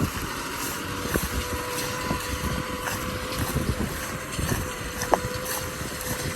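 Kubota M6040 tractor's diesel engine running steadily, with wind on the microphone and a sharp click about five seconds in.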